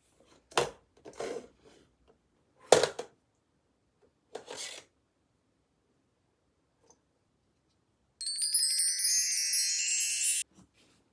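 A few short, soft rustles and taps, then a bright, twinkling chime jingle of about two seconds made of quick rising runs of high notes, which starts and cuts off suddenly.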